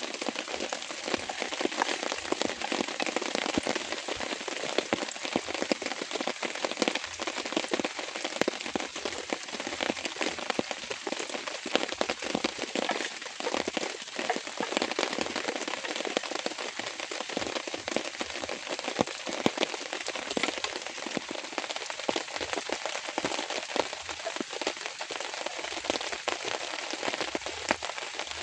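Steady rain, a dense, even stream of small drop hits on a surface with no let-up.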